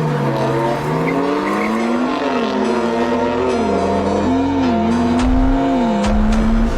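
Car engine revving, its pitch climbing and dropping several times, with a couple of sharp clicks near the end.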